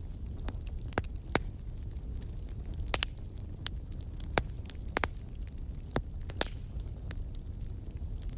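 Wood fire in a fireplace crackling: irregular sharp pops and snaps, a louder one every second or so among many small ticks, over a steady low rumble of the flames.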